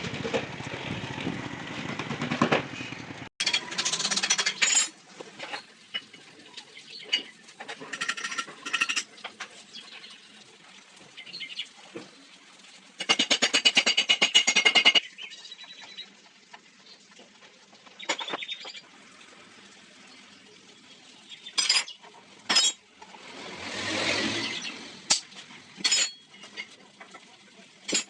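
Metal engine parts and hand tools clinking and knocking as a Honda CD70 cylinder head is put back together, with a dense run of rapid clicks lasting about two seconds midway. A steady rushing noise fills the first three seconds and cuts off abruptly.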